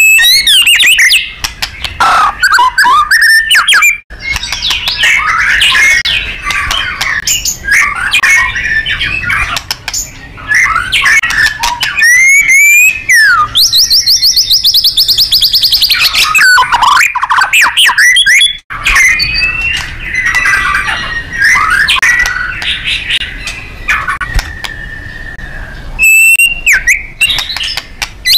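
White-rumped shama (murai batu) singing loudly and without pause: a varied run of whistles, sliding notes and chattering trills, with a long burst of rapid repeated notes about halfway through.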